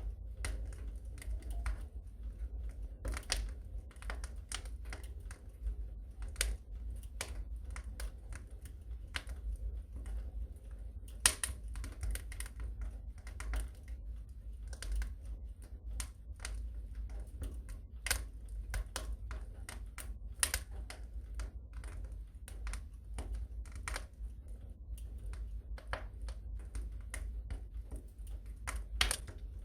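Wood fire crackling in a fireplace: a steady stream of irregular sharp pops and snaps over a low steady rumble, with one louder pop about eleven seconds in.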